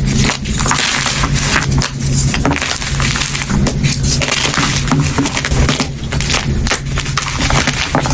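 Soft gym chalk being crushed and crumbling, with a continuous run of soft, irregular crunches.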